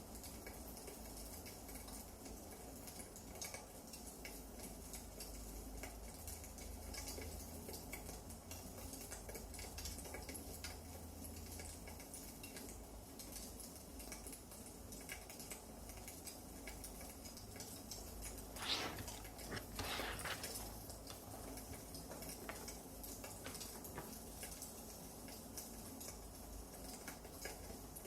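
Firewood burning and crackling: scattered small pops and ticks over a low rumble, with two louder bursts of crackle a little past halfway.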